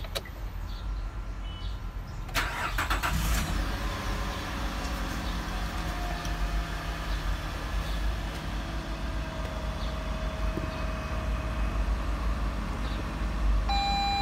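Nissan VQ25DE 2.5-litre V6 cold start: the starter cranks briefly about two seconds in, the engine catches, and it settles into a steady high cold fast idle of about 1,800 rpm. A short electronic tone starts near the end.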